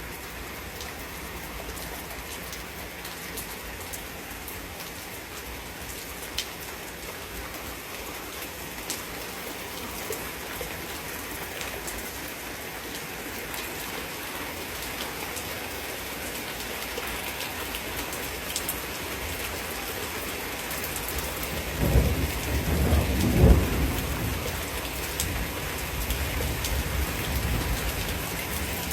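Steady heavy rain falling, with scattered sharp drip ticks. About two-thirds of the way through, a loud, low thunderclap rumbles for a few seconds with two peaks.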